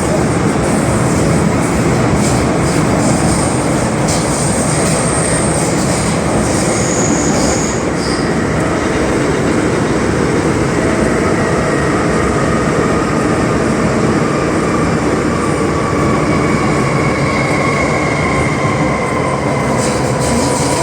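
Inside a car of an MTR M-Train (an Island line set) running between stations: steady rumble of wheels on rail, with a traction-motor whine of several drifting tones coming up about ten seconds in.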